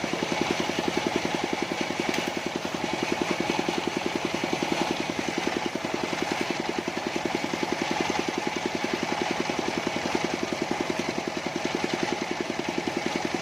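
Engine of a mobile sawmill running steadily with a fast, even beat.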